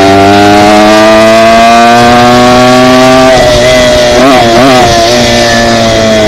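Dirt bike engine running hard, its pitch climbing slowly as it gathers speed. A little past the middle the pitch wavers quickly up and down a few times, and near the end it drops as the throttle closes.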